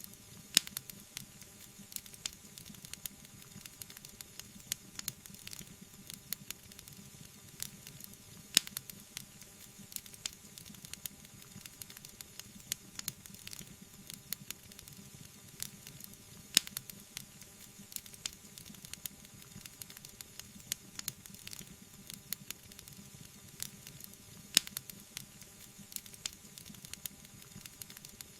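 Wood fire crackling, with frequent small snaps and pops over a low steady hiss. Four louder pops stand out, evenly spaced about eight seconds apart.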